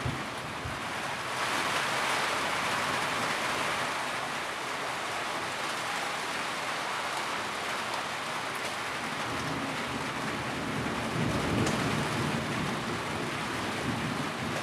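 Steady rain falling, a dense even hiss of drops. A low rumble swells and fades about ten seconds in.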